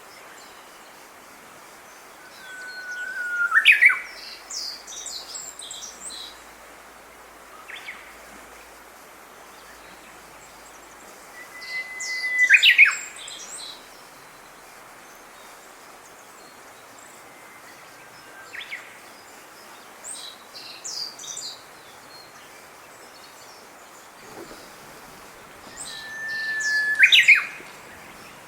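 Japanese bush warbler (uguisu) singing its song three times, about every twelve seconds: a long held whistle that breaks into a quick sharp flourish. Softer, higher twittering from other small birds follows each song, over a steady background hiss.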